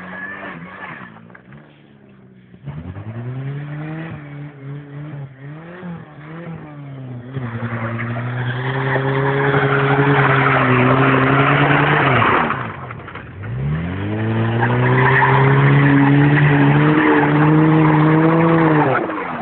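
Mitsubishi Colt hatchback engine revving hard as the car slides on loose ground, with a loud hiss of tyre and ground noise over it. The revs climb, hold high for several seconds, drop off sharply about two-thirds of the way through, then climb and hold high again until they fall away near the end.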